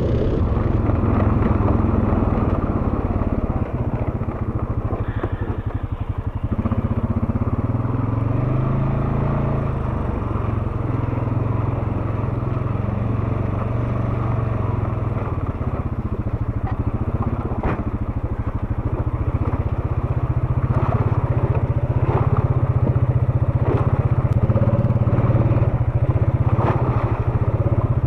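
An ATV engine running steadily while riding a trail, its pitch rising and falling with the throttle. Short knocks and rattles from the ride come through here and there.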